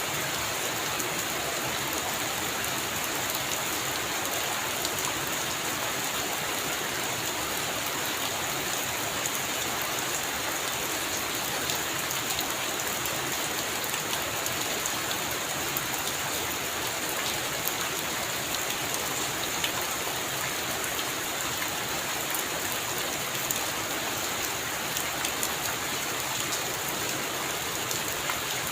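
Heavy rain falling on a roof: a steady, dense hiss of drops with many small, sharper drop hits scattered through it.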